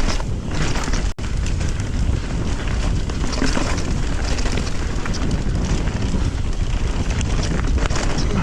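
Mountain bike ridden down a trail at speed: wind rumbling on the microphone over tyre noise, with the bike rattling and clicking over bumps.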